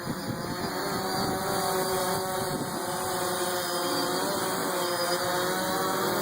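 DJI Phantom quadcopter's electric motors and propellers whining steadily as it descends under automatic landing, the pitch wavering slightly.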